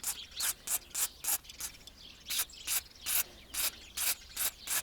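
Aerosol can of penetrating lubricant ("liquid key") spraying in short repeated squirts, about two hissing bursts a second, onto rusted brake parts to free them.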